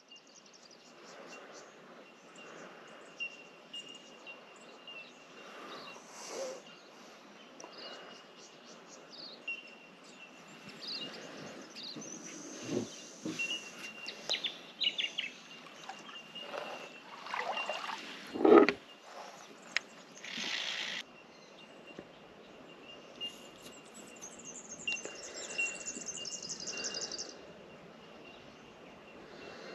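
Chorus of bell miners (bellbirds) giving a steady, high tinkling of bell-like pings, with other birds calling, including a fast trill late on. A few knocks cut through, the loudest about 18 seconds in.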